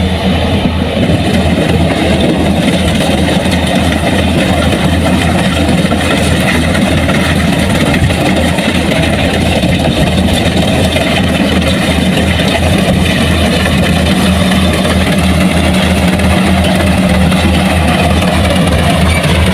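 Large engine of farm machinery running steadily at a constant speed, with a fast, even low throb.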